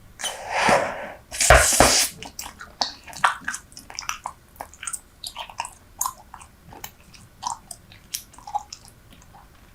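Super Bubble bubble gum chewed close to the microphone: many short wet clicks and smacks, with two louder, longer noisy sounds in the first two seconds.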